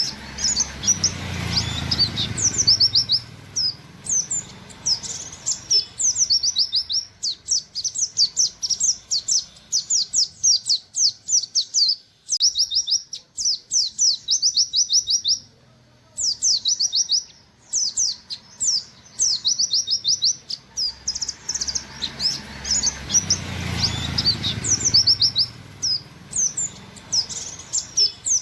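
Pleci (white-eye) singing in rapid-fire runs of short, high, down-slurred "wit wit" notes, each run lasting a second or two, with brief pauses between runs.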